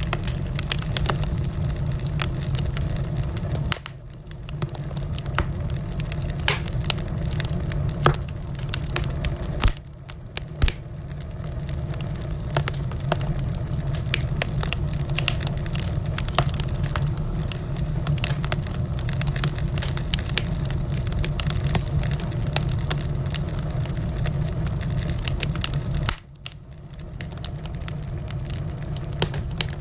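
Wood fire crackling in a fireplace: a steady low rumble of flames with frequent sharp pops and snaps, two of them louder about eight and nine and a half seconds in. The low rumble drops away suddenly and builds back three times, about four, ten and twenty-six seconds in.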